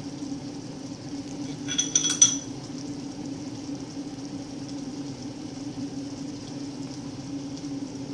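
Brief clatter of kitchenware about two seconds in: several quick clinks with a ringing metallic or glassy tone, over a steady low hum.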